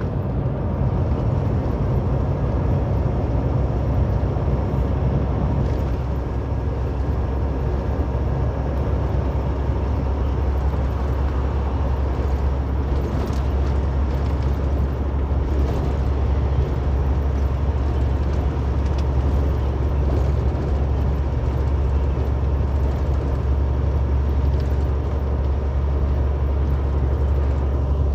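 Steady low rumble of road and engine noise inside a moving vehicle's cabin, even throughout with no sudden events.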